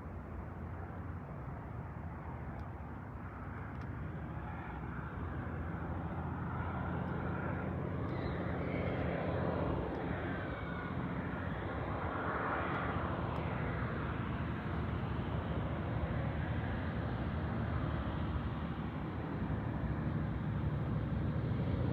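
Light propeller airplane's engine running steadily, its sound slowly growing louder through the first half.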